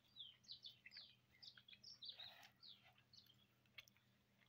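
Faint bird chirping: a quick run of short, downward-sliding chirps, over a low steady hum.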